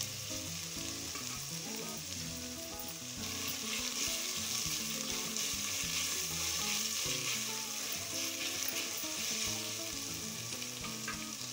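Chopped tomatoes and onions sizzling in hot oil in a rice cooker's nonstick inner pot, stirred with a wooden spatula. The sizzle grows louder about three seconds in.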